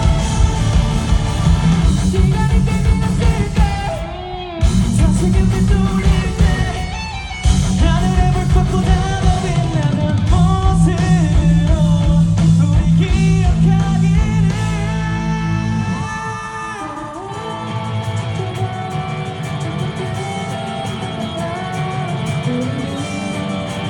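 Live rock band playing with drums, bass, electric guitar and a sung lead vocal. The band stops for brief breaks about four and seven seconds in, and about sixteen seconds in the drums and bass drop out, leaving guitar and voice.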